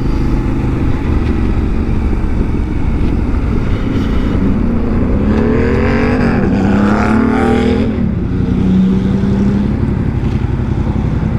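Yamaha Ténéré 700's parallel-twin engine running under way over a steady low rumble. About halfway through the revs climb and drop a few times as the bike accelerates, then settle into an even hum.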